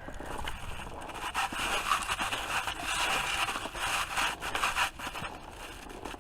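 Boots crunching and scraping through snow, an irregular crackly crunch that is loudest from about one second in until near the end.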